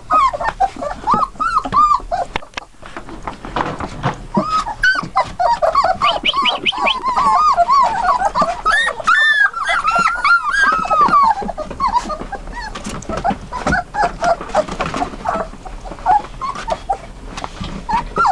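A litter of three-week-old Dutch Shepherd × German Shepherd cross puppies whining and squeaking together, many short high calls overlapping, busiest in the middle.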